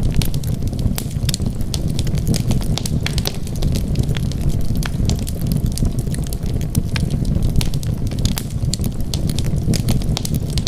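Wood fire burning in a fireplace: a steady low rumble with many sharp, irregular crackles and pops.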